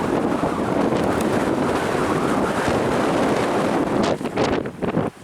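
Strong typhoon wind buffeting the microphone, a loud steady rush that breaks into uneven gusts near the end.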